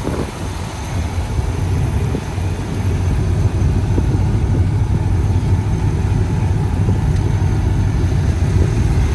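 A vehicle engine idling steadily with a low rumble, growing a little louder about three seconds in.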